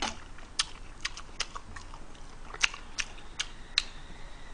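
A person chewing a mouthful of food close to the microphone: irregular wet mouth clicks and smacks, about two or three a second.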